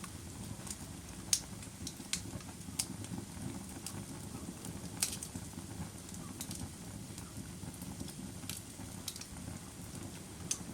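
Campfire crackling: irregular sharp pops and snaps, the loudest about a second in and at five seconds, over the steady low rush of the burning wood.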